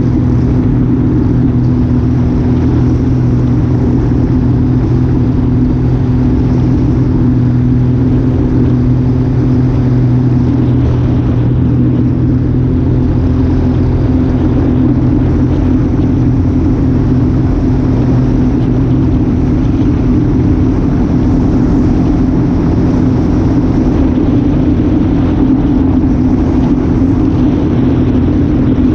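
An engine running at a steady speed: a constant low hum over rumble that does not change.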